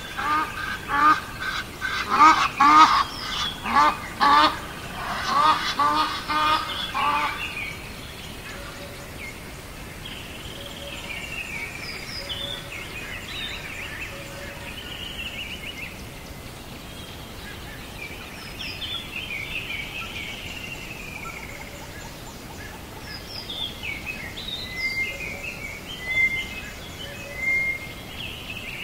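Birds calling: a loud, fast run of repeated calls for the first seven seconds or so, then scattered higher chirps and snatches of song.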